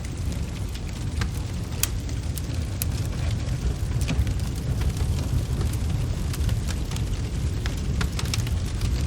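Fire crackling in a fireplace: a steady low rumble with scattered sharp pops and snaps.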